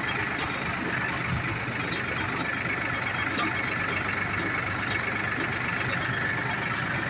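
Powertrac ALT 4000 tractor's diesel engine running steadily, with a thin high tone held over the engine noise.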